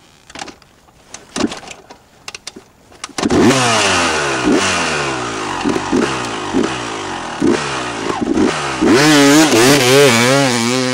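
Dirt bike engine: a few knocks and clicks, then about three seconds in the engine starts and is revved in quick repeated throttle blips, each rev falling away, with the revs wavering up and down near the end.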